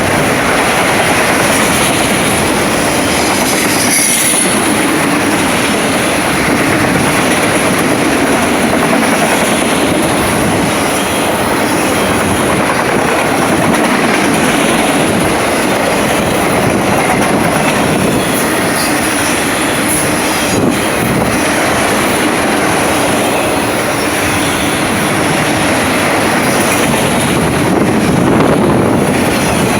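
Train wheels rolling past at close range: a loud, continuous rolling rattle of railway car wheels on the rails, with a steady high-pitched squeal over it.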